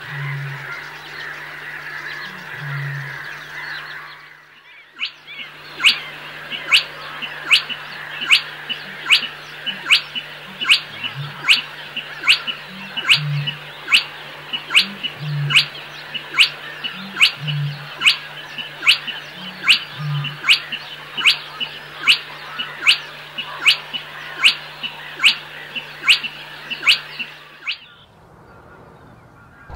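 A bird in a wetland at dusk giving one short, sharp call over and over, a little more than once a second, from about five seconds in until shortly before the end. A steady low hum with occasional swells runs underneath.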